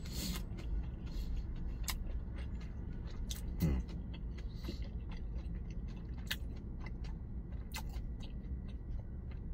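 Close-up chewing of a mouthful of kimbap, with irregular soft mouth clicks and smacks, over a steady low hum.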